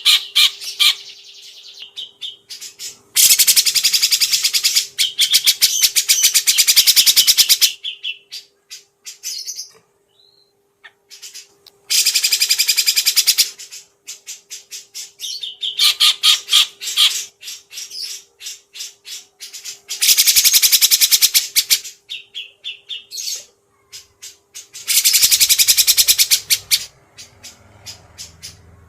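Songbird singing in very fast, dense, high-pitched trills, five long runs of a few seconds each, with short chirps and brief pauses between them; the kind of song recording used as a 'masteran' for training caged songbirds.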